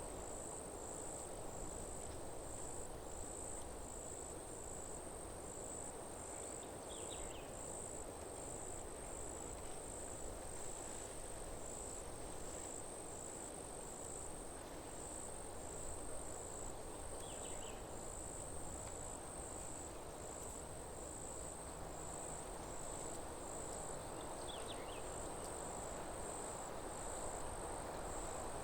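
Forest ambience: an insect, cricket-like, chirping in a high, even pulse of about three chirps every two seconds, over a steady rush of wind in the trees. Three brief faint calls stand out, about a quarter of the way in, past the middle, and near the end.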